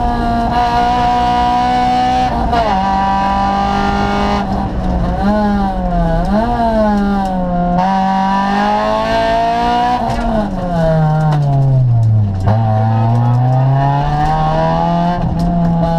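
Honda Civic rally car's engine heard from inside the cabin under hard driving. Its note holds steady, drops in pitch about two and a half seconds in, rises and falls several times through the bends, then sinks steeply to a low note about twelve seconds in and slowly climbs again.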